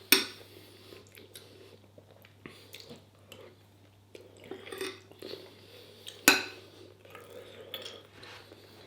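Cutlery clinking against a plate and chewing during a meal, with two sharper clinks, one right at the start and a louder one about six seconds in.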